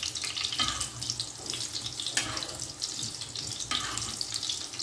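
Chapli kabab frying in hot oil in a flat pan: a steady crackling sizzle, with a few sharper pops standing out from it.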